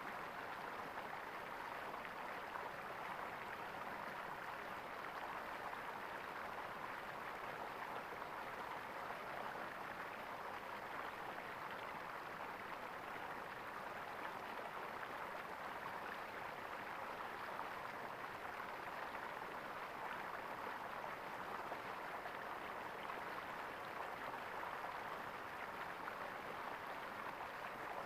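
Water gurgling steadily in a stream, an even rushing sound with no pauses.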